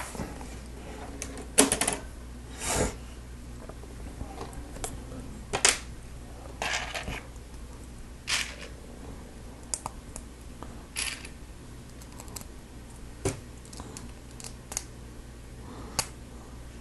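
Plastic Lego Technic pieces clicking and clacking as they are handled and pressed together: scattered sharp clicks about once a second, with a few brief rustles, over a faint steady low hum.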